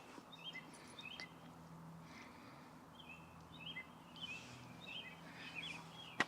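Birds chirping, many short repeated call notes that slur downward, over a faint low hum. One sharp knock sounds near the end.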